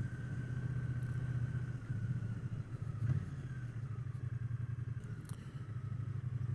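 Triumph Bonneville T120's parallel-twin engine running steadily at low revs while riding, with a faint whine that slowly falls in pitch.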